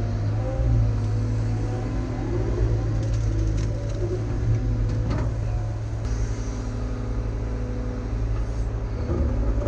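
Caterpillar heavy equipment's diesel engine running steadily as it works, with a deep constant hum and a few light clicks and clanks about halfway through.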